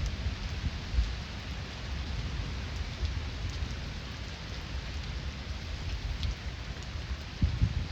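Heavy rain falling steadily, with a low rumble of distant thunder underneath that swells about a second in and again near the end.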